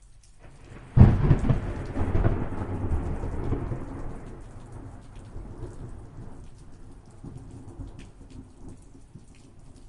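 Thunderstorm: a sudden sharp thunderclap about a second in, then thunder rumbling and slowly dying away over several seconds, over steady rain with scattered individual drop clicks.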